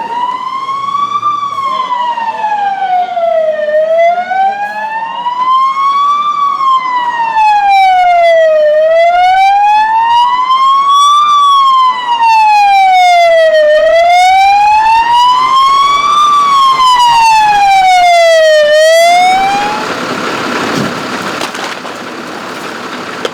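Emergency vehicle siren wailing, its pitch rising and falling slowly in a steady cycle of about five seconds, growing louder as it approaches. It cuts off near the end, leaving a steady noise.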